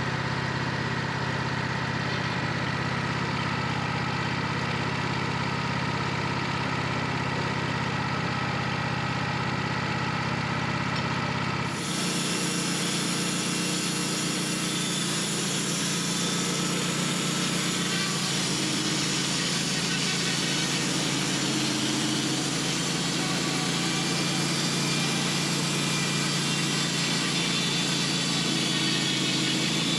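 A steady-running engine, with an abrupt change in its sound about twelve seconds in.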